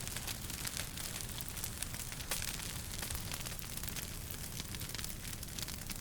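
Wood fire crackling in a fireplace: frequent small, irregular pops and snaps over a steady hiss and low rumble of burning.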